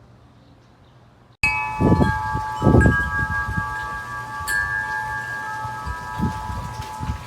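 Wind chimes ringing, several metal tones sounding together and overlapping, starting abruptly after a faint first second or so, with some low rumbling underneath.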